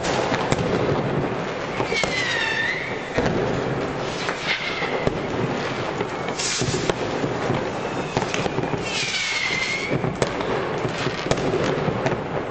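New Year's Eve fireworks and firecrackers from a large crowd going off all at once: a constant dense crackle of bangs and pops. Two whistles fall in pitch, about two seconds in and again about nine seconds in, and a short hissing rush comes about six and a half seconds in.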